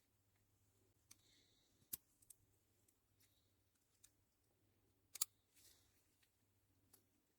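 Quiet handling of small parts on a bench: a few sharp clicks and ticks, the loudest a double click about five seconds in, over a faint steady hum.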